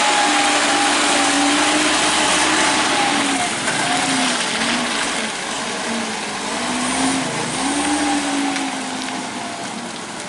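Truck engine revving hard under load, its pitch rising and falling again and again over a rushing noise, easing off somewhat in the second half.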